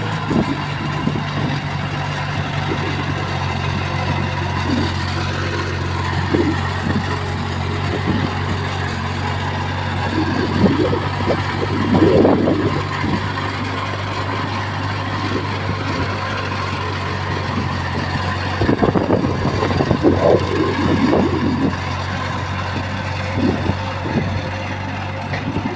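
Diesel engine of heavy construction machinery running steadily, with irregular clanks and rattles that come in louder clusters about ten seconds in and again near twenty seconds.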